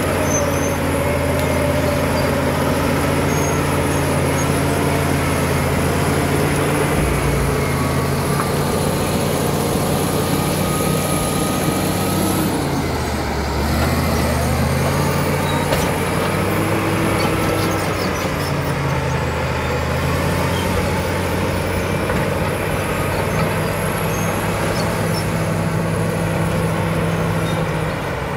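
Caterpillar D7 bulldozer's diesel engine running steadily at work, its note dipping and shifting about halfway through, with a thin high whine above it that drifts in pitch.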